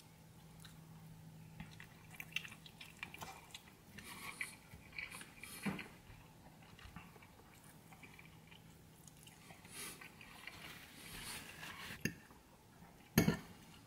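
A person chewing a mouthful of air-fried salmon close to the microphone, with soft, wet mouth clicks and smacks. There is a single sharper knock near the end.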